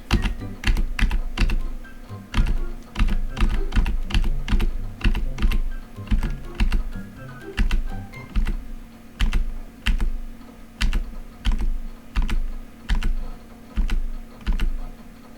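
Computer keys or mouse buttons clicked repeatedly, roughly two clicks a second at an irregular pace, each with a dull thump, over a faint steady electrical hum.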